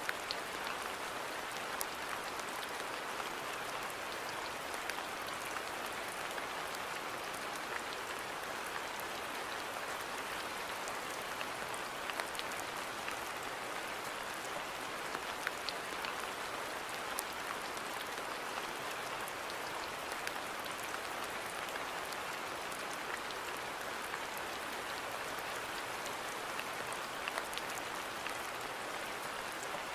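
Steady rain falling on a garden, a continuous even hiss with scattered louder individual drop hits.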